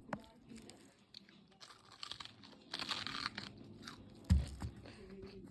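Close-up crunching and chewing of cabbage leaves, in bursts of crisp crunches. A single low thump comes near the end.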